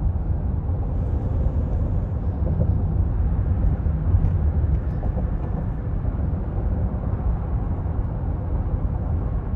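Steady low road and tyre rumble heard inside the cabin of a 2024 Cadillac Escalade on the move.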